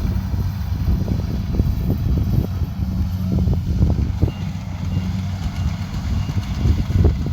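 Kubota DC70 Pro combine harvester's diesel engine running with a steady low hum, with uneven low knocks over it.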